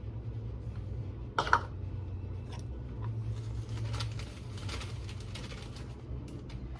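Light clinks and taps of a utensil measuring dry pancake mix into a bowl: one sharp clink about a second and a half in, then a few fainter taps and scrapes, over a steady low hum.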